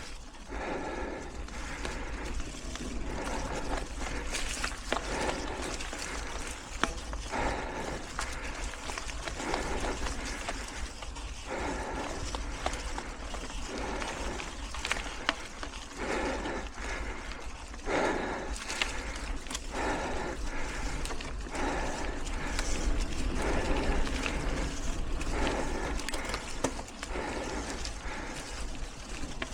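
Mountain bike riding over hard-packed singletrack, heard from a helmet-mounted camera: a steady rumble of tyres and rattling bike, with the rider breathing hard in regular puffs about every second after a climb.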